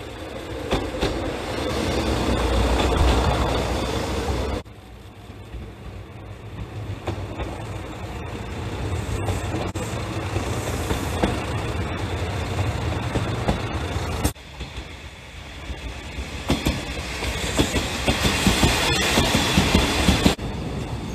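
Trains on the track in three short clips joined by abrupt cuts: a Mizushima Rinkai Railway diesel railcar approaching with a heavy low engine and wheel rumble, then a two-car diesel railcar train running past more evenly, then a train coming nearer with a rapid clickety-clack of wheels over rail joints that grows louder near the end.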